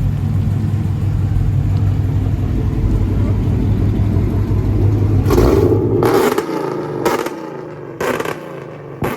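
Car engine rumbling steadily, then cutting off about six seconds in, followed by several short, sharp sounds.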